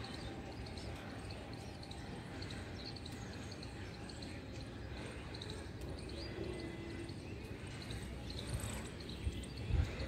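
A small bird's faint, short high chirps at intervals over a low steady background rumble, with a couple of soft bumps near the end.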